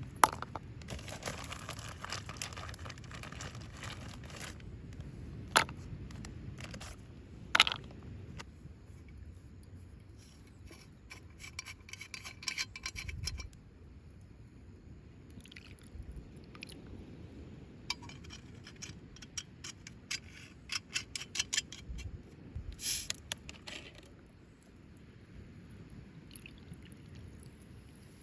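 Objects being handled and set down: scraping, clinks and clicks, with a few sharp knocks, over a low steady background.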